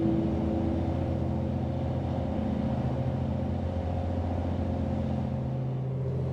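Steady low drone of the car ferry MV Loch Bhrusda's engines running under way.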